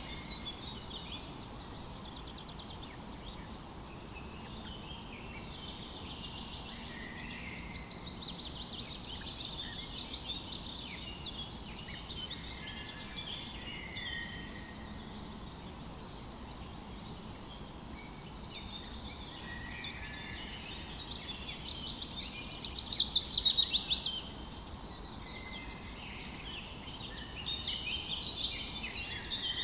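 Several songbirds chirping and singing over one another in a morning chorus, over a faint steady hiss, with one loud, rapid trill about three-quarters of the way through.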